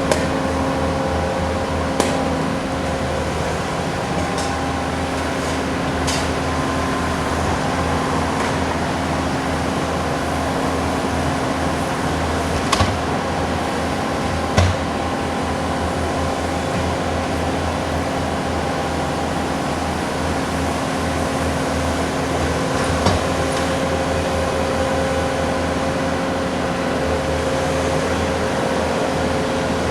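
Bobcat skid steers' diesel engines running steadily under load while milling and sweeping the street, a constant drone and hum with a few sharp knocks scattered through it.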